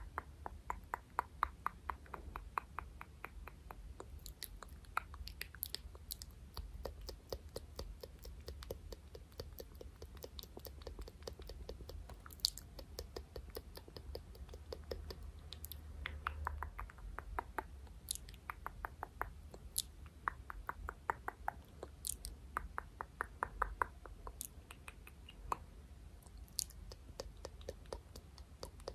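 Close-miked ASMR hand sounds: fingers making runs of rapid soft clicks and taps, several a second, in short trains with pauses between and an occasional sharper click.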